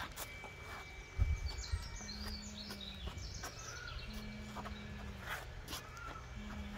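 Outdoor ambience with small birds chirping and twittering. A low steady tone lasting about a second comes three times, and a low thump sounds about a second in.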